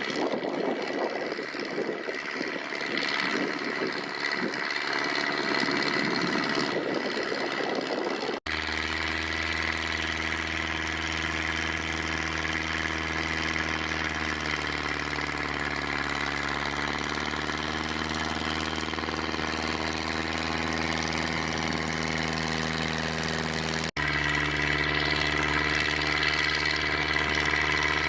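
Ursus C-360 tractor's four-cylinder diesel engine running steadily while ploughing. Its pitch sags for a few seconds past the middle and then recovers, as if it pulls down under the plough. For the first eight seconds or so it sounds rougher and more rushing, without the deep hum.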